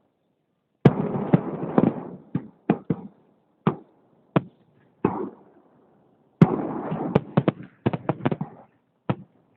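Fireworks salute shells bursting: a dense run of sharp bangs and crackling about a second in, single bangs spaced about half a second to a second apart, another dense run about six seconds in, and a last single bang near the end.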